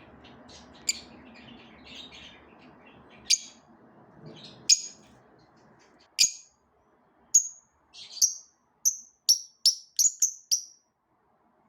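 Parrots chirping: a few soft twitters, then sharp, short, high-pitched calls that come quicker near the end, about three a second.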